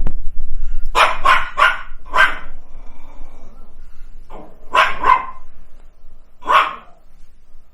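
Pet dogs barking in short runs: four quick barks, then three more, then a last single bark.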